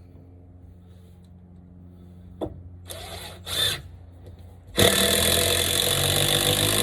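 Power drill driving screws into wood, with two short trigger pulls about three seconds in, then a long steady run of about two and a half seconds near the end.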